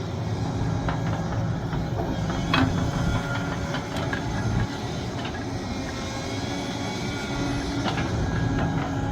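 Sumitomo SH370LHD-6 hydraulic excavator working: steady engine hum with sharp metal clanks, the loudest about two and a half seconds in, and a few short high squeals.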